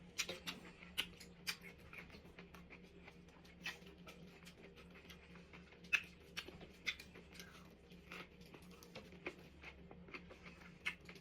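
Close-up chewing of cucumber sushi: irregular crisp crunches and wet mouth clicks as the cucumber and rice are chewed.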